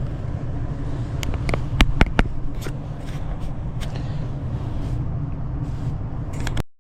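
Air-conditioning system running with a steady low hum, the repaired system now cooling at an 18-degree split. A few sharp clicks come about two seconds in, and the sound cuts off abruptly near the end.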